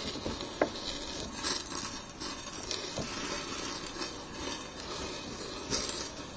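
A spoon stirring thick peach cobbler batter in a metal springform pan, with wet stirring noise and occasional scrapes and clinks against the pan.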